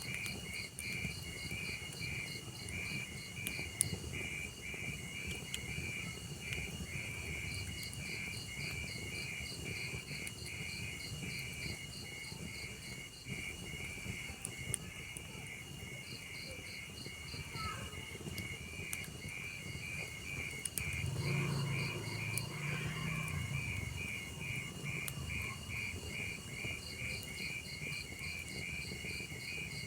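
Crickets chirping in a steady, even rhythm over a log fire's low rumble and occasional small crackles, with a louder low whoosh from the fire about two-thirds of the way through.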